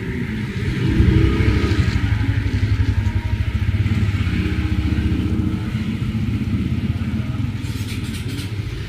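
Motorcycle engine passing close by, growing louder about a second in and then slowly fading away.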